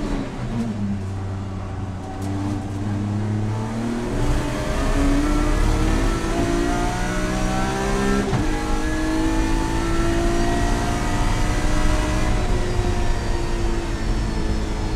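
BMW track car's engine heard from inside the caged cabin under hard acceleration. Revs sag low through a slow corner, then climb steadily to nearly 8,000 rpm, with a sharp upshift about eight seconds in, after which the engine pulls on, rising again.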